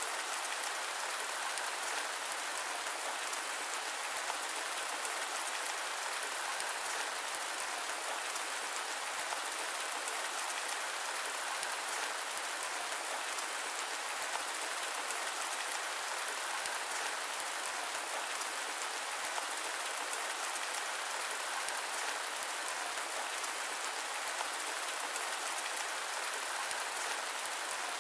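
Steady rain mixed with white noise, an even hiss that does not change.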